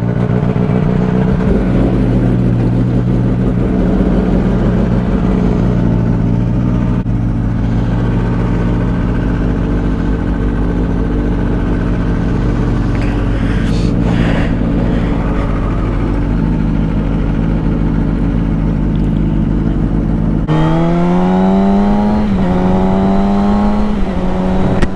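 Suzuki GSX-R600 inline-four sport bike engine running steadily at low revs, then about twenty seconds in the revs climb in rising sweeps with a short dip between, as the bike accelerates.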